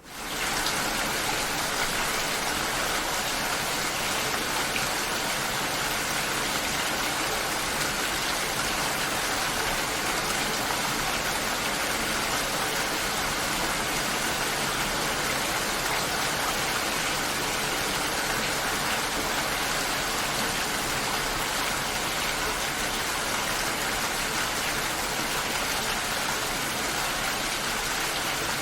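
Steady rain: an even, dense hiss that swells up at the very start and then holds level throughout.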